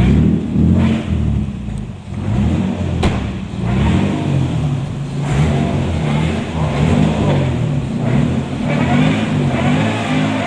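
Car engine revving and labouring under load, its pitch rising and falling, with a sharp click about three seconds in.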